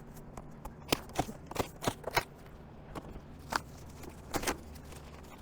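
Hands working cardboard onto a target backer frame: a series of about eight sharp clicks and snaps, several close together in the first half and a few more later.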